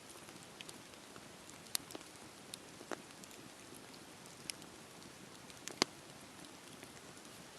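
Wood fire burning with a steady soft hiss and scattered sharp crackles and pops, a few loud ones about two and six seconds in.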